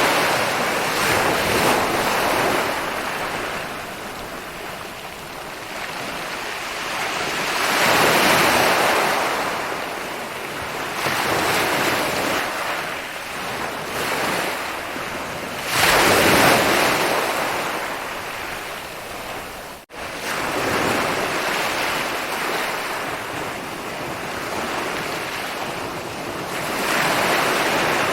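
Ocean waves rolling in and breaking on a beach: a broad hiss of surf that swells with each breaker every few seconds and eases into a steady wash between them. About two-thirds of the way through, the sound cuts out for a split second.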